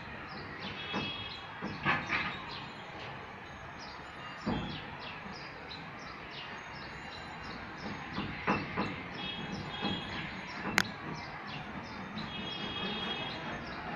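Small birds chirping steadily, with several short high chirps a second and a few brief trills. A few dull knocks break in, and there is one sharp click about eleven seconds in.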